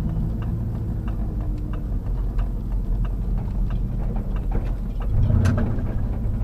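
Pickup truck's engine running at low speed as it rolls into a parking lot, with scattered sharp clicks and a louder bump about five seconds in.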